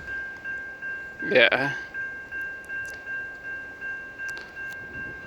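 Railway crossing bell ringing steadily at about two strokes a second, with no train approaching: the crossing is malfunctioning and stuck activated.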